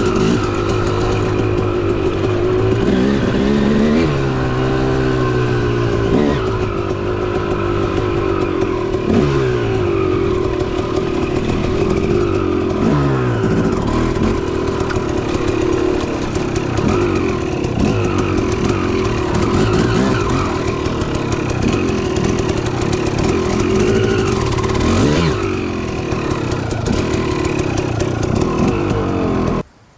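Dirt bike engine running under way, its revs rising and falling again and again as the rider works the throttle and gears. The sound cuts off suddenly just before the end.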